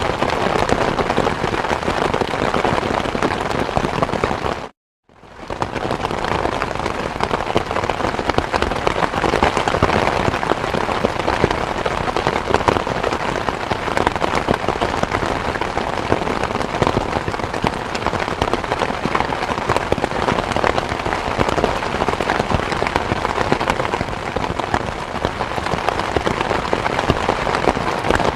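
Steady rain, a dense even patter of drops. About five seconds in the sound cuts out completely for a moment, then the rain fades back in.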